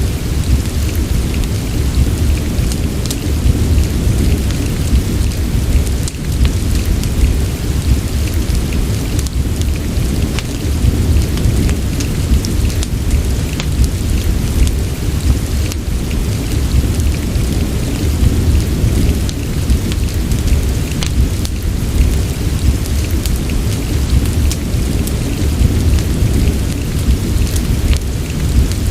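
Steady rain mixed with a fireplace: a constant hiss over a deep, even rumble, with many small scattered ticks and crackles throughout.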